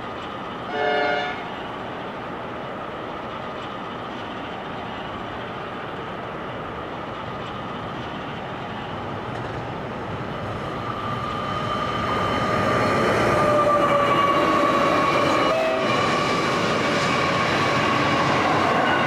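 One short blast of a diesel locomotive horn about a second in, over the steady running noise of freight trains. From about halfway through, the passing trains grow louder, with a steady high tone above the rumble of the wagons.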